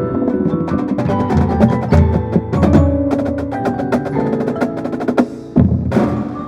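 Marching drumline and front ensemble playing: ringing mallet-keyboard notes over crisp drum strikes and rolls, with a sudden heavy low hit about five and a half seconds in.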